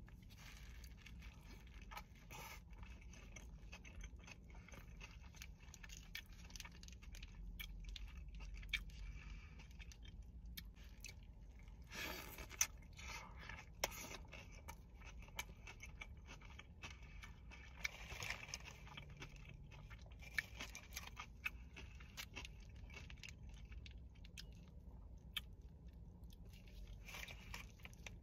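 Wet chewing and lip smacks of someone eating an In-N-Out burger wrapped in tomato slices instead of a bun, heard as scattered soft clicks, with rustling of the paper wrapper and gloves.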